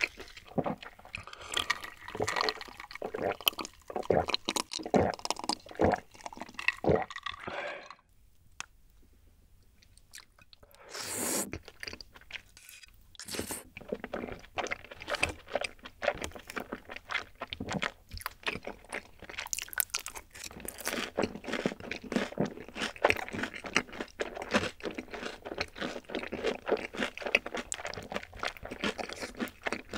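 Close-miked chewing of chewy rice cakes and noodles in a creamy rosé sauce, a rapid run of wet mouth clicks and smacks. Chewing stops briefly about eight seconds in, then starts again and carries on.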